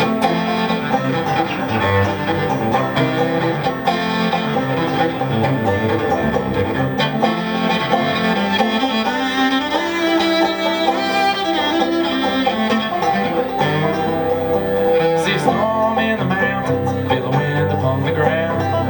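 Instrumental break in a live acoustic folk song, played by a two-piece string band with no singing, at a steady level.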